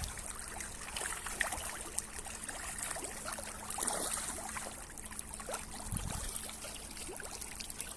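Water at a fish pond's surface: light, irregular small splashes and trickling as the fish take feed.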